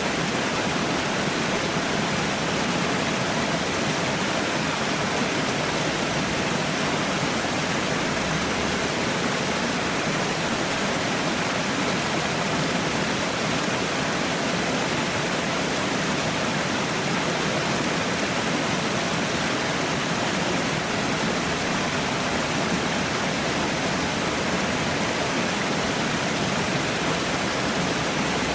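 Steady rush of falling water, like a small waterfall or cascade: a continuous, even noise without change.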